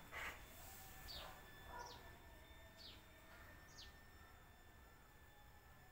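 Faint bird calls: a short harsh call right at the start, then four brief high chirps, each dropping in pitch, spaced about a second apart.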